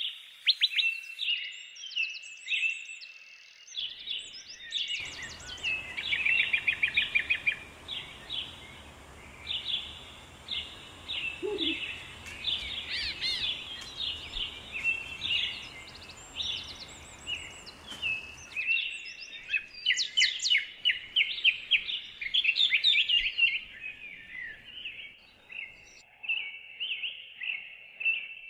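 Many small birds chirping and trilling in quick repeated phrases, one call overlapping the next with no break.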